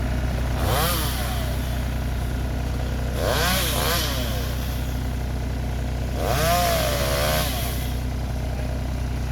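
A motor vehicle engine idling steadily, with three brief louder episodes of a wavering whine and hiss: about a second in, around three seconds in, and around six to seven seconds in.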